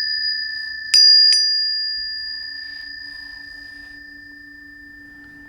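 Planetary tuning forks ringing: a high, clear tone, struck again twice about a second in, then fading slowly over a lower steady tone.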